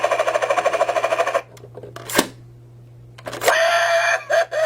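Battery toy helicopter's electronic rotor sound effect from its small speaker: a rapid, even chopping pulse lasting about a second and a half. A click comes about two seconds in, and another pitched electronic sound from the toy starts a little past three seconds.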